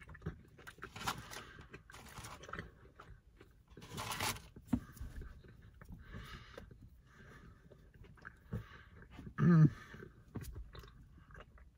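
A person biting and chewing a hard, dry biscuit, with irregular crunches. The loudest crunch comes about four seconds in, and there is a brief vocal sound near the end.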